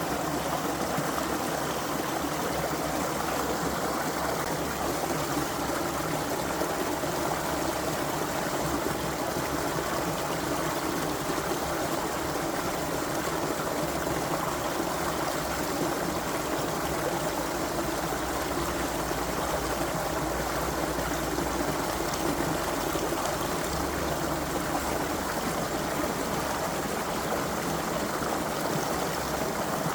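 A creek's water running steadily over stones, a continuous babbling, trickling flow.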